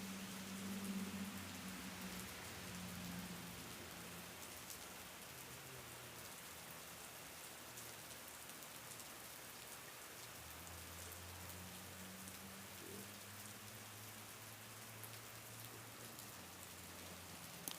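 Steady rain falling, a soft even hiss with scattered drop ticks. Underneath are faint low held tones that shift in pitch a few times.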